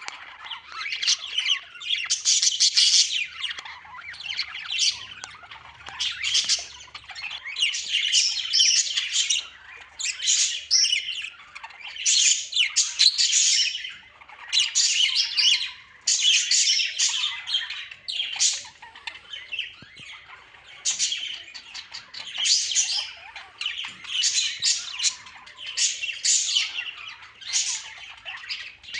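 Birds calling in a busy, high-pitched chatter that comes in bursts about every second or two.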